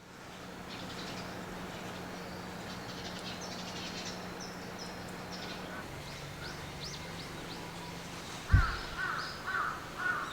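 Small birds chirping in quick, high notes throughout, over a steady low hum. About eight and a half seconds in comes a sharp thump, then a crow caws about four times.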